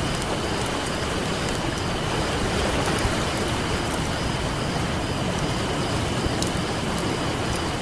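Ocean surf washing steadily on a beach beside a crackling campfire, with scattered sharp pops and crackles from the burning wood over the constant wash of the waves.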